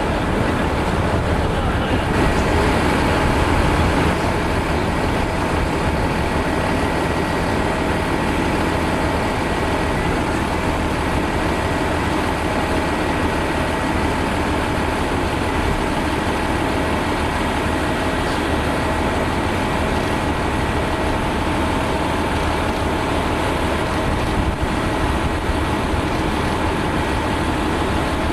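Boeing 787 Dreamliner's jet engines running at low thrust, a steady rumble with a constant high whine layered over it.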